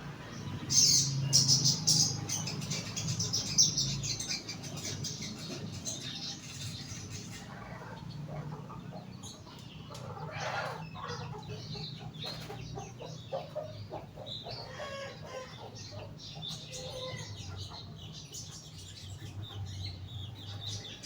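Young sogon (crested jay) calling in bursts of sharp, harsh chattering notes. The bursts are loudest in the first few seconds, with more around the middle and near the end.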